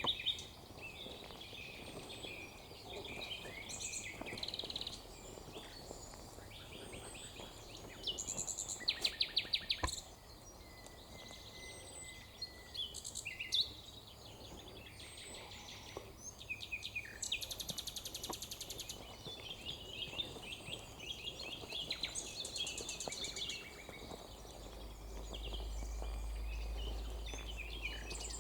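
Mixed chorus of wild songbirds singing and calling over one another, with a loud rapid trill about a third of the way in and a high buzzy note a little past the middle. A low rumble joins near the end.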